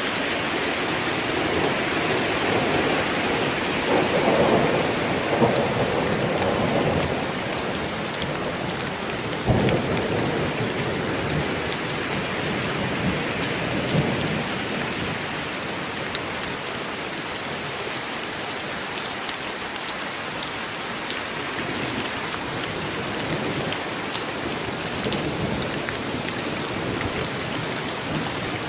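Steady heavy rain falling on a forest, with rumbles of thunder in the first half: a long roll a few seconds in, then a sharper crash about ten seconds in.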